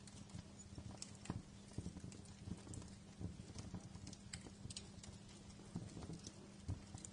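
Wood fire crackling, with irregular small pops and snaps scattered over a steady low rumble.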